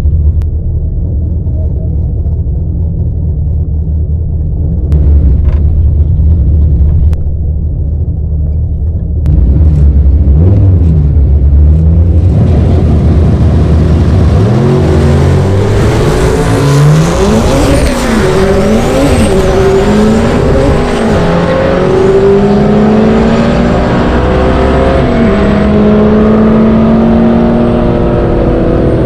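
Turbocharged Honda B18C GSR four-cylinder in an EG Civic hatchback, heard from inside the cabin at a drag strip launch. The engine runs steadily at the line, then about nine to twelve seconds in it goes to full throttle, with the revs climbing and dropping repeatedly as it accelerates down the track. A high whine rides over it in the second half.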